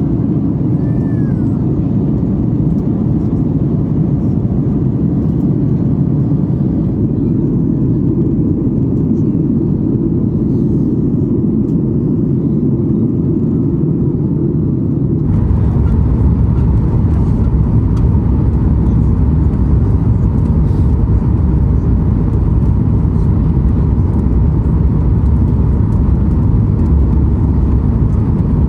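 Steady jet engine and airflow noise inside the cabin of a Boeing 737 MAX 8 airliner. About halfway through it switches suddenly to a louder noise, heavier in the low end and with more hiss.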